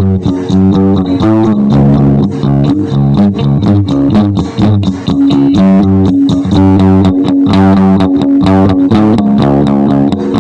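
Instrumental music with plucked guitar and bass guitar playing a busy run of notes.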